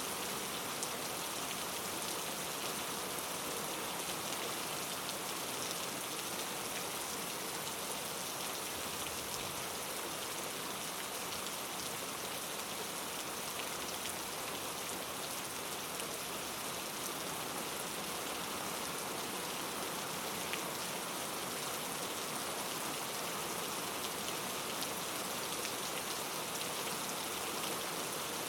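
Steady rain falling, an even hiss of many drops with faint scattered individual drop taps.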